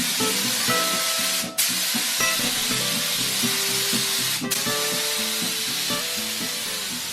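A loud, steady spraying hiss, cut off briefly twice, over background music.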